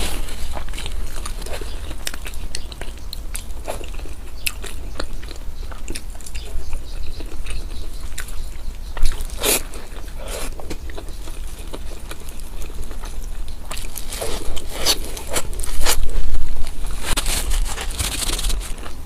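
Close-up eating sounds: a person biting, crunching and chewing food in a run of irregular wet clicks and crackles, with a few louder bites about halfway through and again near the end.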